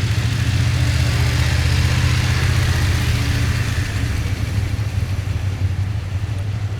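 A motor vehicle driving past, its engine and tyre noise swelling and then fading.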